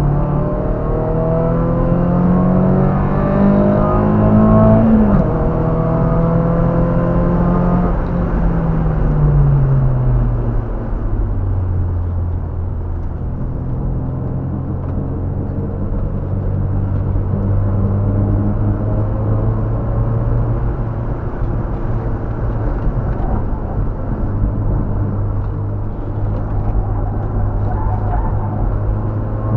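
Car engine heard from inside the cabin, rising in pitch under acceleration, then dropping suddenly about five seconds in and falling further until about ten seconds in as the car slows, then running at a steady lower pitch.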